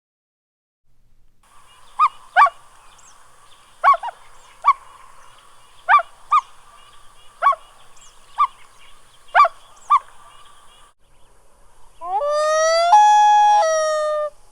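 Common loon calls. A series of short, clear notes comes in pairs every one to two seconds over a faint steady hiss. Near the end there is a long, loud call that rises and then holds, breaking up and down in pitch.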